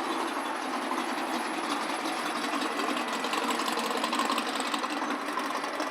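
A vehicle engine idling with a fast, even clatter.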